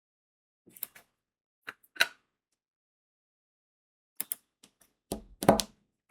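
Diamond-painting work sounds: crystal drills clicking as they are pressed onto the sticky canvas with a drill pen, in scattered single taps. Near the end comes a louder, deeper cluster of knocks and clicks.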